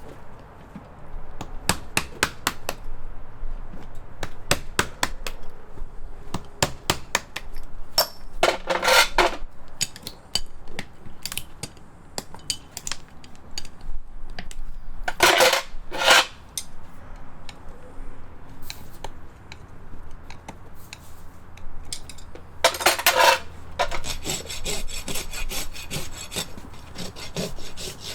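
Farrier's rasp scraping across a horse's hoof in strokes, with many sharp clicks in between. Three longer scrapes come about 9, 15 and 23 seconds in, and near the end a quick, even run of strokes.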